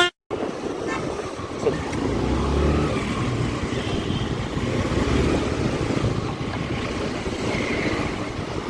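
Motorbike running along a wet road, its engine rumble mixed with steady wind and road noise on the phone's microphone; the sound cuts out for a moment at the very start.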